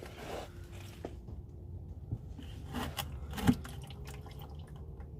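Engine oil dripping and trickling into a bucket from a loosened spin-on oil filter, with a few light knocks, the loudest about three and a half seconds in.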